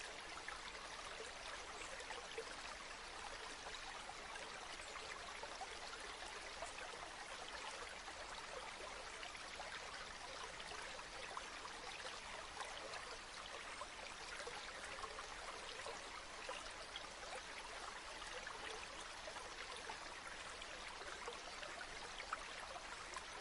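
River water flowing steadily, a continuous, even babble of running water.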